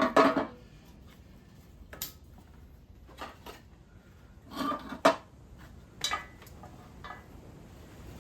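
Irregular clatters and knocks of hard objects being handled, the loudest right at the start and a handful more spread through the rest.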